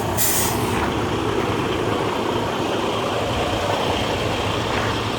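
Semi-truck's diesel engine running steadily at low speed as the rig reverses, with a short hiss near the start.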